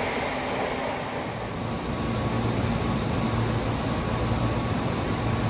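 Train noise at a station platform, fading in the first second or two into a steady low rumble with a hum.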